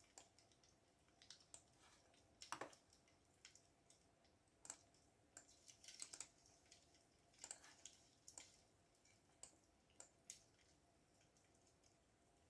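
Faint computer keyboard typing: irregular key clicks, some in short quick runs and some alone, with gaps of a second or so between them.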